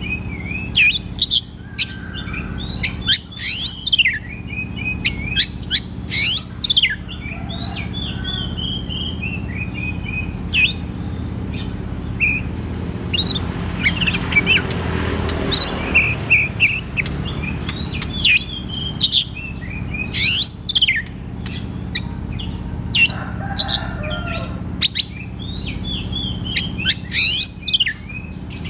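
Oriental magpie-robin (kacer) singing continuously in full song: a long, varied run of clear whistled notes and quick sweeping phrases, with no pauses of note. A steady low hum runs underneath.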